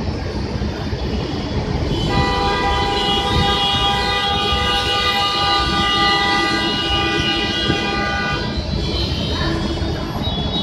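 Heavy-vehicle rumble at a busway stop, with a long steady high-pitched horn-like tone that starts about two seconds in and holds for about six seconds before stopping.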